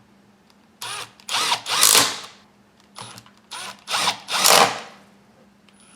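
Power drill/driver run in short trigger bursts, driving screws into the chainsaw's cover. There are two groups of about three runs each, and each run rises and falls in pitch.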